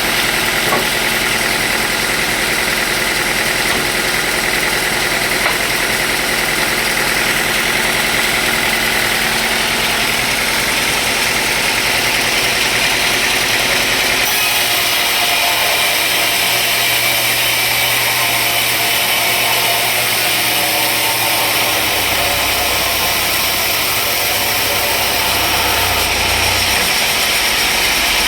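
Sawmill machinery running steadily. The sound grows hissier about halfway through, and a low hum joins near the end.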